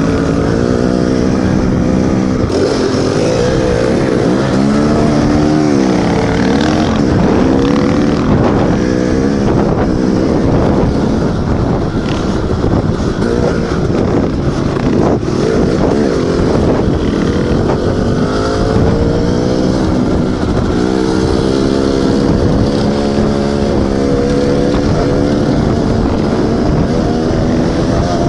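Dirt bike engine running as the bike is ridden, its pitch repeatedly rising and falling with the throttle and gear changes.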